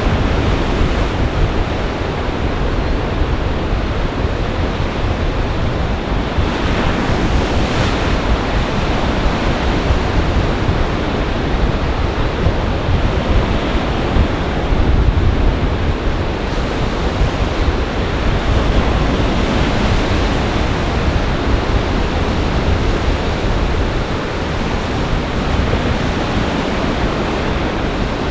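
Lake Michigan storm surf breaking in gale-force wind: a constant loud wash of waves, with the wind rumbling against the microphone in uneven low gusts.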